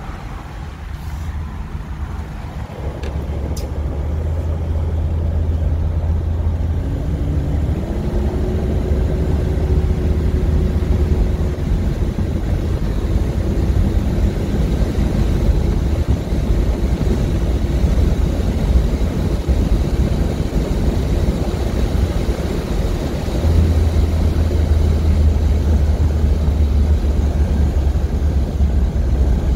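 A 1978 Corvette Stingray's newly installed engine pulling the car along, heard from inside the cabin with a deep low rumble under road and wind noise. It builds over the first few seconds, with an engine tone rising in pitch about seven seconds in, then settles to a steady cruise and swells again near the end.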